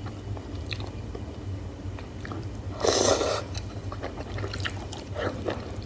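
A person chewing hotpot beef slices and mushrooms close to the microphone, with small wet mouth clicks. A loud half-second burst of noise comes about three seconds in. A steady low hum runs underneath.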